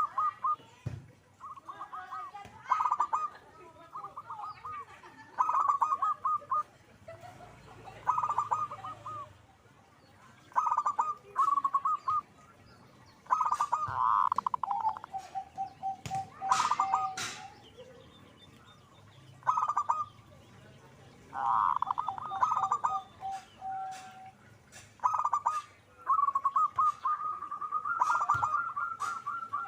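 Zebra dove (perkutut) calling over and over: phrases of rapid staccato coos, several of them ending in a short run of evenly spaced lower notes.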